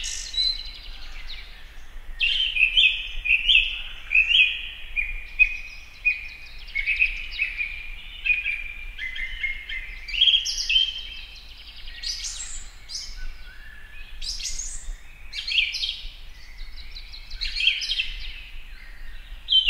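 Birdsong: a steady run of short, high chirps and trills in quick phrases with brief gaps.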